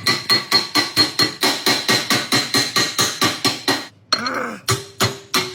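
Rapid hammering on metal, about five blows a second, each strike ringing with the same metallic tone. It stops about four seconds in and gives way to a brief sound with sliding pitches.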